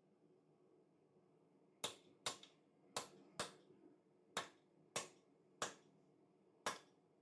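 Hand-hammer blows on a hot 4140 steel bar at the anvil, upsetting its end: eight sharp ringing strikes at an uneven pace, starting about two seconds in, over a steady low hum.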